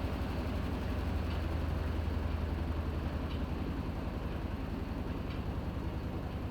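Panasonic NA-FA100H9 top-loading washing machine running: a steady low motor-and-drum hum with a fast flutter, and a faint tick about every two seconds.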